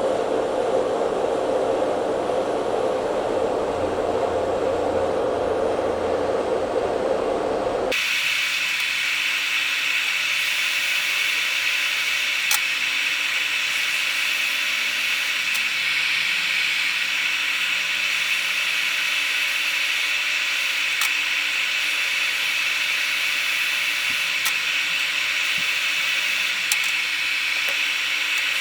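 Steady airflow noise of a hot-air rework station blowing while board solder is reflowed. About a third of the way through it changes abruptly from a lower rushing sound to a higher, steady hiss, with a few faint ticks.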